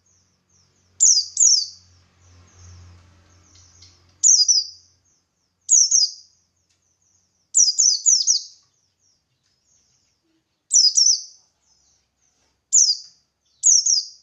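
Buxtoni white-eye (pleci) calling: sharp, high chirps that fall steeply in pitch, singly or in quick runs of two or three, about every one to two seconds, with softer twittering in between. A faint low hum runs underneath from about two to four seconds in.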